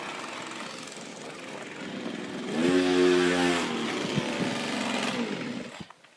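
Two-stroke chainsaw engine driving a homemade go-kart, running and revving up loudly for about a second midway, then cutting out near the end.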